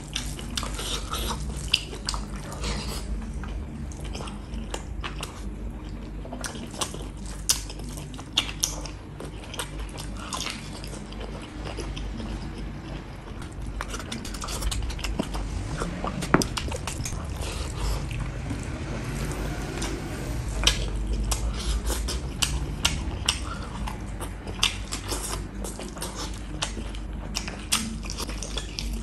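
Close-miked chewing and biting of beef and rice eaten by hand, with many short sharp clicks throughout, as fingers mix rice and gravy in a steel tray.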